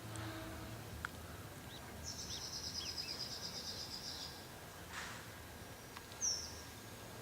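Birds calling outdoors: a high, rapid trill lasting about two seconds, beginning about two seconds in, with scattered short chirps and one sharp downward chirp near the end, which is the loudest call.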